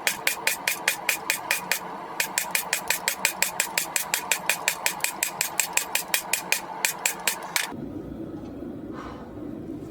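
Rapid, even hammer blows on a hot railroad spike at the anvil, about four to five a second, with a short break about two seconds in and stopping near the end: the blade is being forged and trued up.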